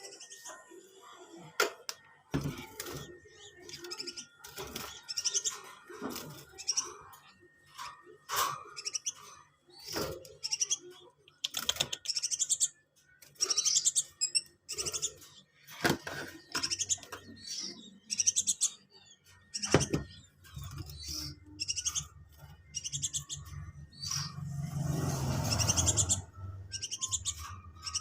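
Hand-reared nestling songbirds chirping in short, high-pitched bursts again and again, begging calls while being hand-fed. Near the end comes a longer rustling noise with a low hum.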